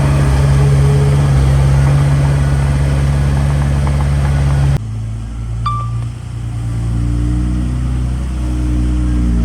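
Heavy diesel earthmoving engine running steadily at a constant pitch. Almost five seconds in, the sound cuts abruptly to another engine, quieter and lower, which then rises in pitch as it revs, with one brief high beep just after the cut.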